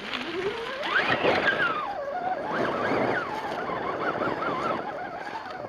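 A 1/10-scale RC rock crawler's electric motor and geared drivetrain whining, the pitch climbing steeply as the throttle opens, then wavering up and down with the throttle, over the rough noise of the tyres working over rock and dirt.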